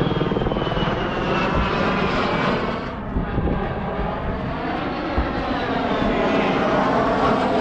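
Airshow airplane's engine running through an aerobatic pass, its pitch falling away over the first second or so and sweeping again a few seconds later as it passes.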